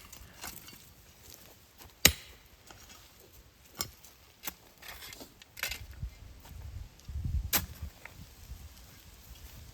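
A digging tool striking into soil and stones: irregular sharp strikes, the loudest about two seconds in, with a stretch of low scraping and shifting of earth around the seventh second.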